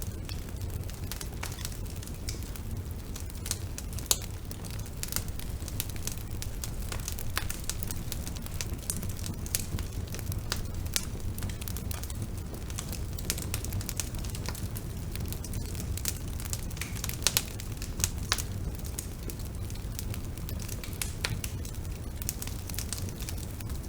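Wood fire burning: a steady low rumble with frequent sharp, irregular crackles and pops of burning wood.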